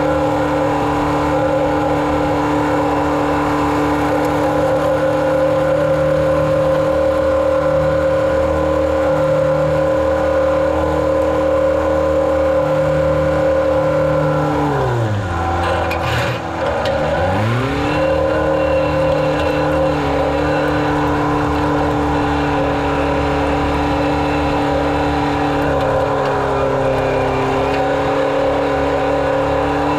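Engine of a litter-spreading farm vehicle running steadily under load. About halfway through its pitch drops sharply, then climbs back to the same steady speed within a couple of seconds.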